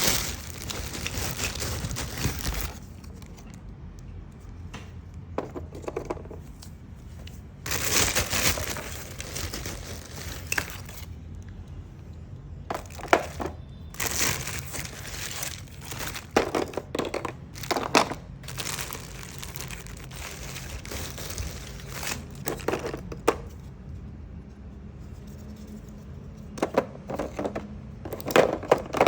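Small hard pieces, likely agarwood chips, being handled: irregular clicking, light clattering and rustling in short bursts with pauses, over a faint steady low hum.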